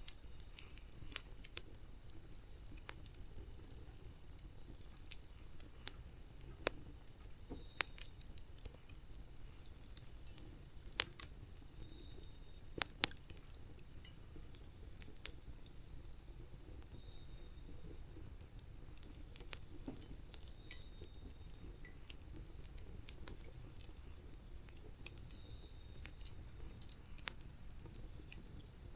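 Wood campfire crackling: irregular sharp pops and snaps throughout, the loudest about 7, 11 and 13 seconds in, over a low steady rumble.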